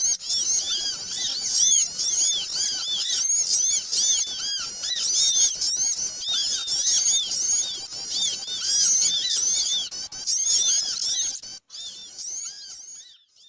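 Bird-lure (pikat) recording of many small birds chattering together: a dense, busy stream of quick high arching chirps that thins out and stops near the end.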